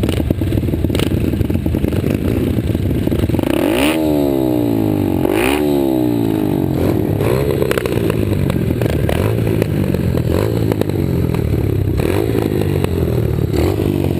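Small four-stroke pit bike engines running under load, rising in pitch twice as a bike revs up about four and five and a half seconds in.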